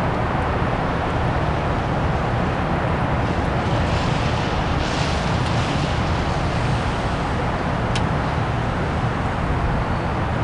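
Steady outdoor rumble and hiss with no pitched source, with a single sharp click about eight seconds in.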